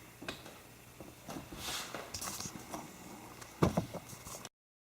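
Handling noises from the phone and its packaging: small clicks, taps and rustles, with a louder knock a little before four seconds in. The sound cuts off abruptly shortly before the end.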